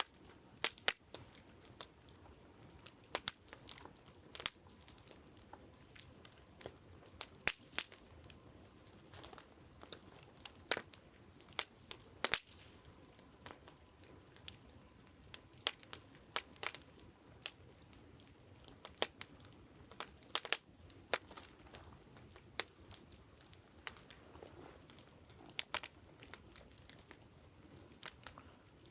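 Wood campfire crackling: irregular sharp pops and snaps of burning logs, some louder than others, over a faint steady background hiss.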